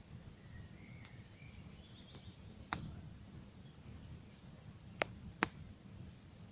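Campfire burning with a low crackling rumble and three sharp pops: one near the middle and two close together later on. Small birds chirp and twitter throughout.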